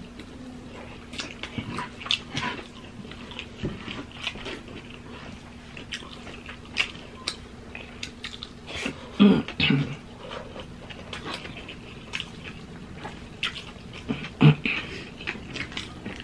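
Close-up eating sounds: wet chewing, lip-smacking and mouth clicks as handfuls of fried rice are eaten by hand. There are two louder moments, about nine and fourteen seconds in.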